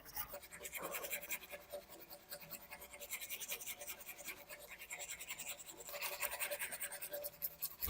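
Quick, repeated hand scrubbing strokes on a rusty metal part, a run of short scratchy rubs during rust removal.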